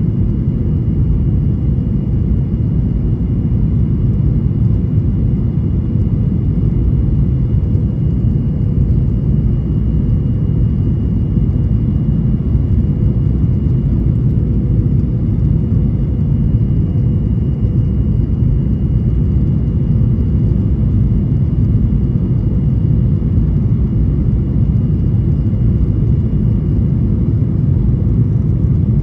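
Steady cabin noise inside a Boeing 737-800: a low, even rumble of engines and airflow with a faint steady whine above it.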